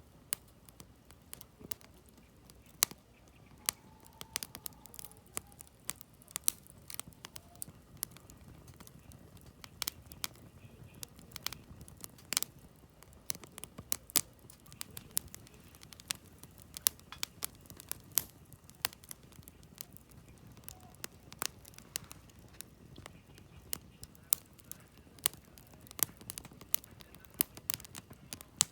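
Wood campfire burning: logs crackling and popping in irregular sharp snaps, several a second, over a soft low rush of flame.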